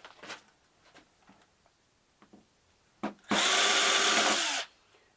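Small handling clicks, then a power drill runs in one steady burst of about a second, driving out a screw from a flat-screen TV's casing or boards.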